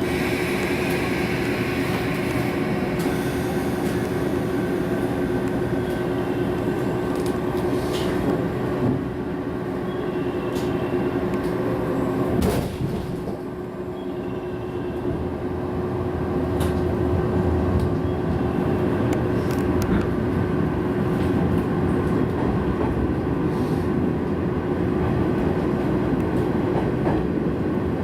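JR West electric commuter train heard from inside a car while running: a steady hum over the rumble of the wheels on the rails, with a few sharp clicks from the track.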